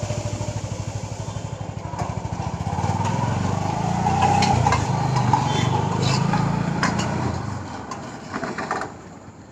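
A small engine running with an even low putter. It grows louder a few seconds in and dies away near the end, with a few sharp clicks in the middle.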